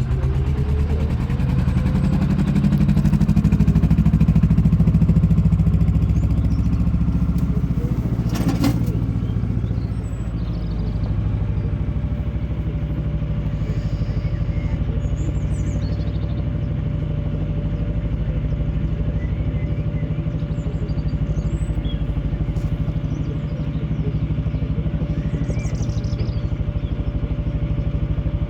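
Narrowboat's inboard diesel engine running steadily under way, louder for a few seconds early on as it is throttled up, with a single sharp knock about eight seconds in.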